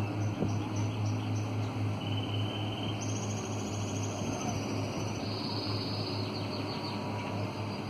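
Steady low hum of a boat engine running, with high-pitched buzzing trills laid over it, several in a row, each a second or two long.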